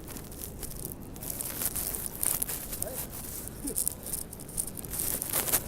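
Footsteps crunching through snow, a quick irregular series of crackly crunches over a low steady rumble of city noise.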